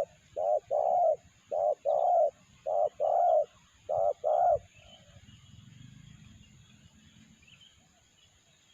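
Spotted dove (terkukur) cooing in short two-note phrases, a new phrase about every second and a quarter. The bird goes quiet about four and a half seconds in.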